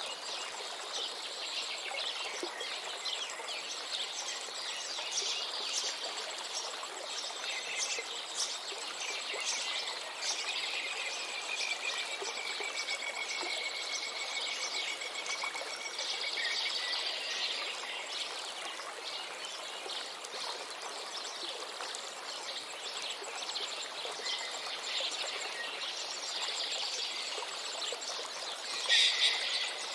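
Many small birds chirping and singing over the steady rush of a river, with one long trill in the middle and a louder burst of calls near the end.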